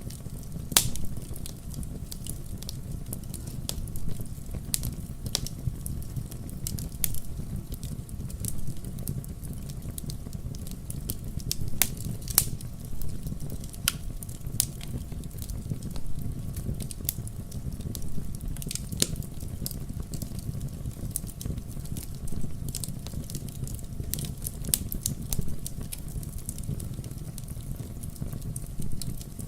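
Wood fire crackling in a fireplace: a steady low rumble of flames with frequent irregular snaps and pops, a few louder pops standing out.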